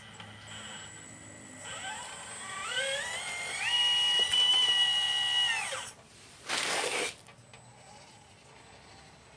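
Small electric motor of a 1/12 scale RC Liebherr 954 excavator model whining, rising in pitch in steps, holding a steady high whine for about two seconds, then stopping. A short hiss follows about a second later.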